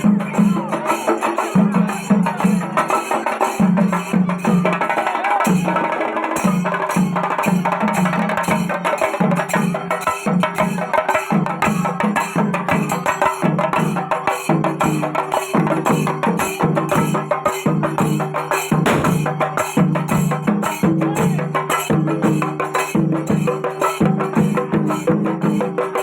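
Kerala chenda melam: a troupe playing chenda drums in a fast, dense, driving rhythm, with metal hand cymbals keeping time.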